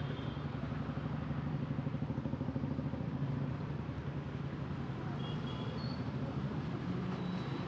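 Motorcycle engine running steadily under way, mixed with road and wind noise.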